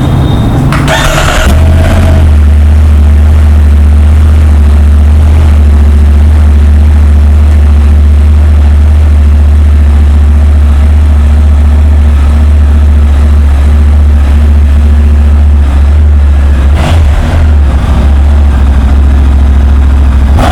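2020 Triumph Tiger 900 Rally Pro's three-cylinder engine starting about a second in, catching at once and then idling steadily and loudly, with a brief sharper noise near the end.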